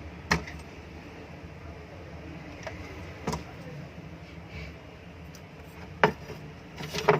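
Four sharp metallic clicks, a few seconds apart, the last two loudest, as the exhaust fan motor's back cover and parts are handled during disassembly.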